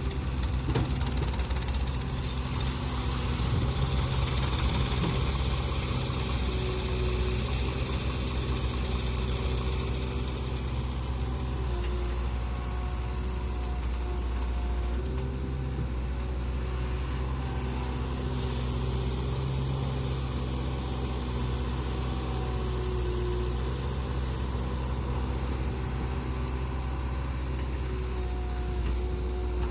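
Mahindra 575 DI tractor's diesel engine running steadily.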